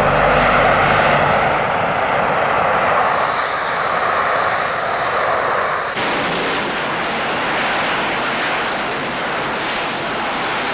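Harrier jump jet's Rolls-Royce Pegasus turbofan running at full power in hover, its thrust directed down through the four nozzles: a steady jet noise whose tone changes abruptly about six seconds in.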